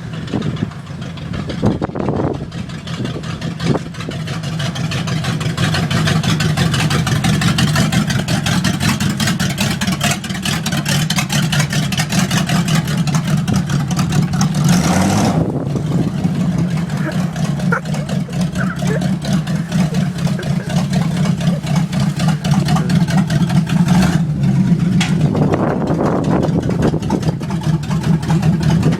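1951 Ford panel truck's engine running steadily, its firing pulses forming a continuous low rumble that builds in loudness over the first few seconds.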